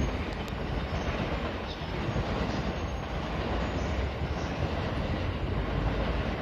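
JR E217-series commuter train running along the tracks: a steady rumble with some wheel clatter.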